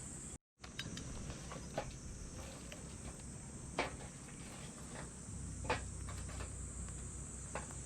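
Insects trilling steadily in a high-pitched drone, with a few sharp clicks about two seconds apart. The sound cuts out completely for a moment near the start.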